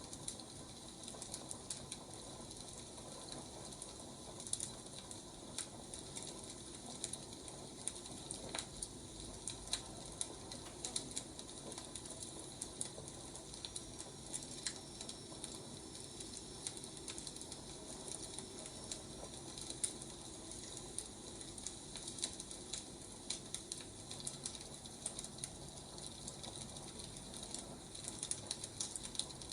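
Wood fire crackling: irregular small pops and snaps over a steady soft hiss.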